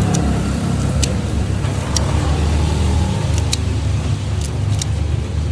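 Steady low rumble of a motor vehicle's engine running close by, with a few sharp knocks scattered over it.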